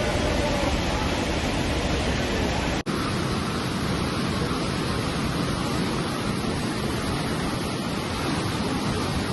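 The Alaknanda river in spate, swollen by torrential rain past its danger mark, rushing loudly and steadily, with a momentary dropout about three seconds in.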